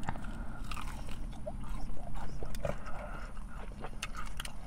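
A person biting into and chewing a breaded chicken nugget close to the microphone, with a string of short, crisp crackles as the coating is chewed.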